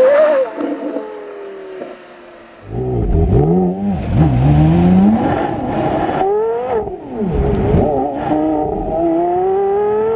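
Sports car engine heard pulling away, its note sliding down and fading over the first two seconds. About two and a half seconds in, a loud close-range engine starts, revving in repeated rising and falling throttle blips, then climbing steadily in a longer rev near the end.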